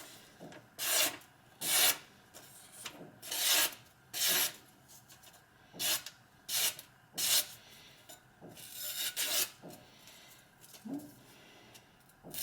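Steel kitchen knife blade making about ten short, irregularly spaced scraping swishes.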